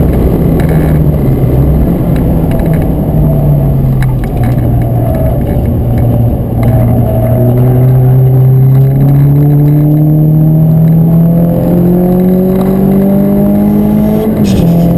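Renault Clio 172 Cup's 2.0-litre four-cylinder engine heard from inside the cabin, with tyre and road noise. It eases off briefly, then pulls steadily as the car accelerates, its pitch rising slowly for about ten seconds, with a short dip near the end.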